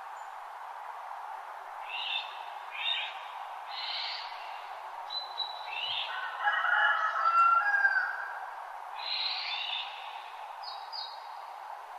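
Several birds calling in a dawn chorus over a steady background hiss: short separate calls every second or so, a louder warbling phrase in the middle, and a couple of high thin whistles near the end.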